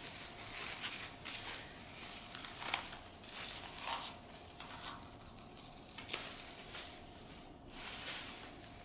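Rustling and crinkling from handling a potted orchid: a taped plastic pot and its potting media shifting, with irregular small clicks and crackles.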